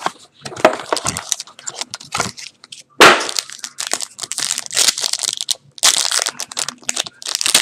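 Packaging of a sealed trading card box being torn and cracked open: dense crinkling and crackling, with a loud crack about three seconds in.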